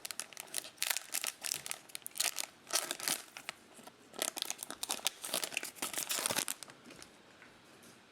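Wrapper of a trading card pack crinkling and tearing as it is ripped open, a dense run of sharp crackles that stops near the end.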